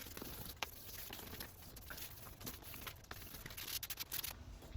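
2000-grit sandpaper being rubbed over a plastic headlight lens, wet-sanding off the oxidized UV coating. It makes a soft, scratchy hiss with scattered light ticks.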